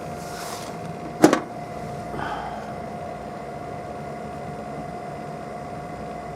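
A steady electrical-mechanical hum with a constant whine-like tone, broken by a brief rustle and then one sharp knock about a second in.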